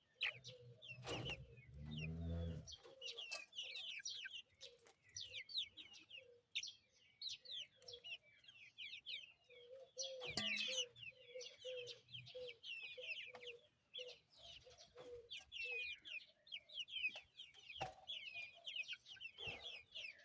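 Zagorsk Salmon chicks peeping, many short high falling chirps, over a series of low clucks repeated about twice a second, with a brief low rumble about two seconds in.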